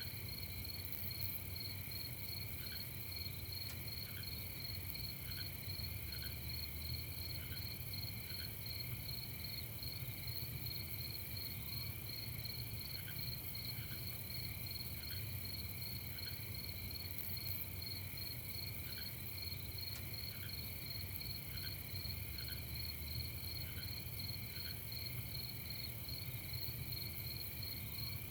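Night chorus of crickets chirping steadily in a fast, pulsing trill, with short, lower chirps in pairs coming and going over it.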